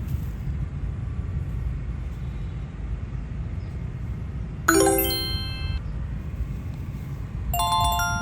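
Two bright, bell-like chimes ring out over a steady low rumble of wind on the microphone: the first rings out about halfway through and fades over about a second, and the second starts near the end.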